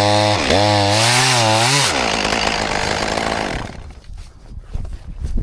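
Chainsaw running hard, its pitch dipping and rising as it cuts, then falling away about three and a half seconds in, leaving quieter scattered knocks.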